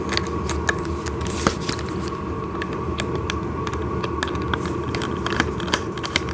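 Irregular small clicks and ticks of a screwdriver and bolt being worked loose from a plastic toy steering shaft, over a steady faint hum.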